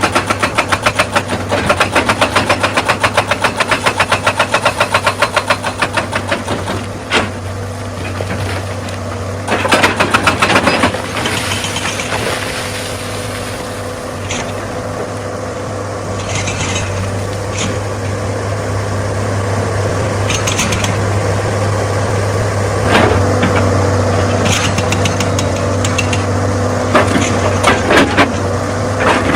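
Excavator's diesel engine running under load, with a run of rapid rattling knocks for the first six seconds and again around ten seconds in, and scattered sharp knocks of rock and steel later on.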